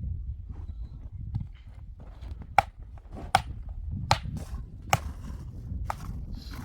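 Five sharp knocks in an even rhythm, about one every three-quarters of a second, starting a couple of seconds in, over a steady low rumble.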